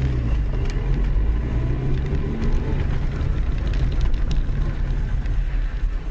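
Steady low rumble of a car's engine and road noise picked up by a dashcam inside the car, with a couple of faint ticks.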